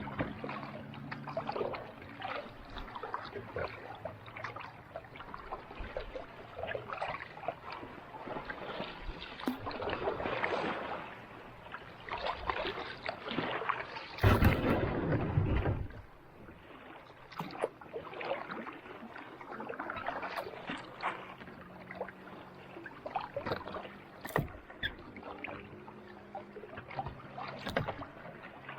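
Kayak paddle strokes dipping and pulling through calm sea water: irregular swishes, splashes and drips every second or so. About halfway through there is a louder, deeper rush of water lasting about two seconds.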